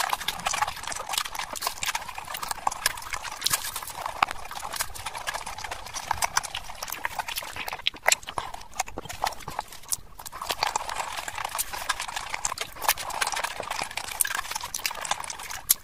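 Close-miked chewing and mouth sounds: a continuous run of wet clicks and smacks as food is chewed. There is a short, thinner stretch about eight seconds in, when a glass is raised to drink.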